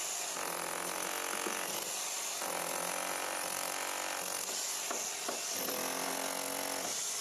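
Power saw's blade cutting through a concrete slab: a steady grinding hiss, with a motor tone that rises and fades every couple of seconds.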